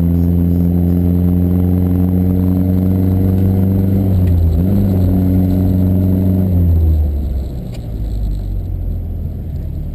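Lancia Fulvia Rally S prototype's narrow-angle V4 engine heard on board, running at steady revs with a brief rise and fall in revs about halfway through. About seven seconds in, the revs and loudness drop.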